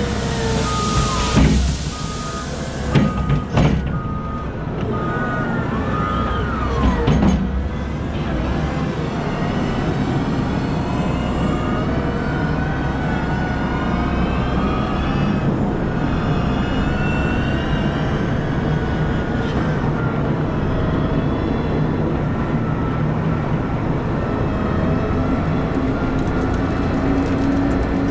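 Heavy quarry machinery at work: wheel loader and truck engines running and changing pitch as they rev. A reversing alarm beeps steadily for about six seconds near the start, and several loud knocks come in the first seven seconds.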